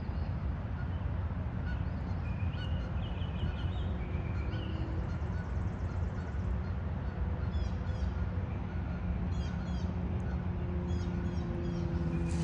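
Birds calling in short repeated chirps over a steady low outdoor rumble.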